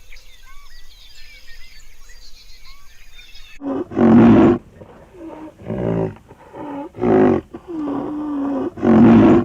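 Faint birdsong, then, about three and a half seconds in, a large animal calling loudly and repeatedly: five or six pitched calls of about half a second each, with one longer, steadier call near the end.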